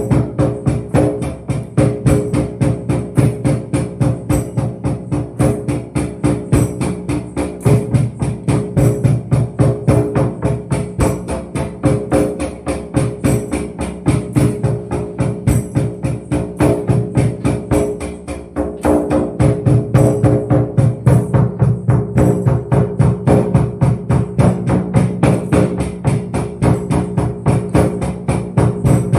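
Fast, steady hand-percussion rhythm, about four to five strokes a second, with a jingling tambourine-like edge, over sustained low ringing tones. The playing eases briefly about two-thirds of the way through, then picks up again.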